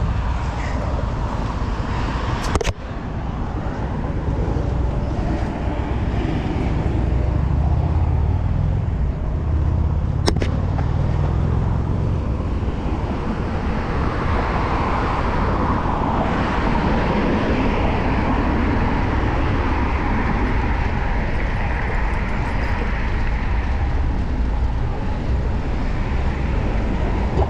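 Street traffic and steady wind rumble on the microphone while riding a bicycle, with a hiss that rises from about the middle onward. Two sharp clicks, at about 3 s and about 10 s.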